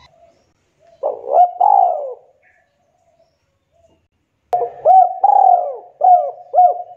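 Spotted dove cooing: a short two-part coo about a second in, then a quick run of four or five coos over the last two and a half seconds.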